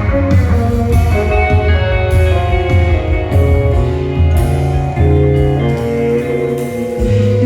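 Live rock band mid-song: an electric guitar solo of held, sustained notes over bass guitar and drums, with cymbal hits every couple of seconds.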